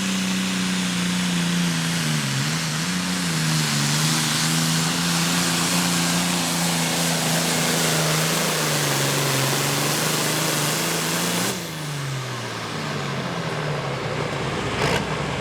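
Pulling tractor's engine held at high, steady revs, with the pitch wavering briefly about two to three seconds in; about eleven and a half seconds in the revs fall away steeply as the throttle comes off. A sharp click near the end.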